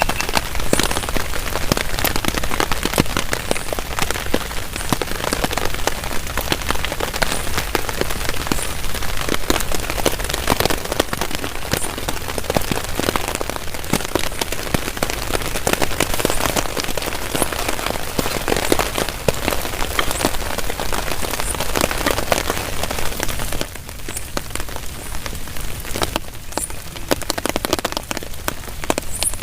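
Heavy rain falling on a tarp shelter: a dense, steady hiss of rain with many single drops ticking against the sheet. It eases a little near the end.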